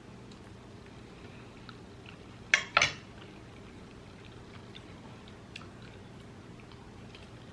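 Quiet chewing with faint mouth clicks, and two sharp clinks of an eating utensil against a dish close together about two and a half seconds in.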